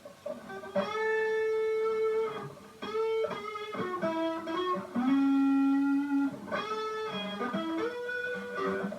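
Electric guitar played through a distortion pedal and a small amp and cab: a lead line of single held notes, some of them bent.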